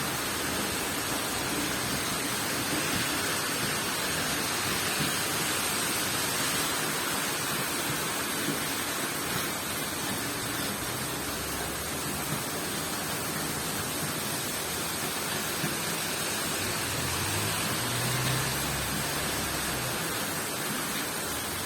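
Heavy rain shower pouring down: a steady, even hiss of downpour, with a low rumble underneath for several seconds in the second half.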